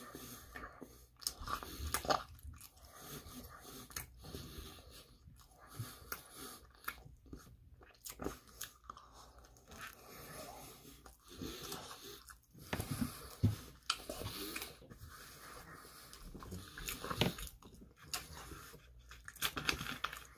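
Close-up chewing and biting of pizza: irregular mouth clicks and soft crunches of crust, with no talking.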